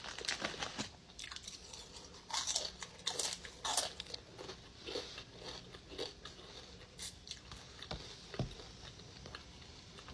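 Close-up chewing and crunching of a chili dog topped with jalapeño peppers, in irregular bites. The crunches are loudest in the first four seconds, then the chewing grows fainter.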